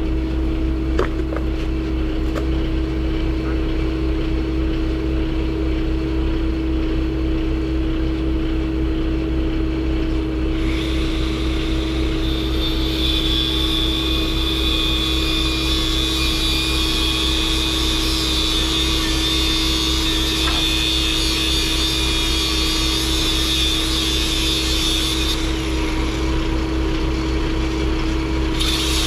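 A machine running steadily with a constant droning hum; a hiss joins it from about a third of the way in, stops a few seconds before the end, and comes back.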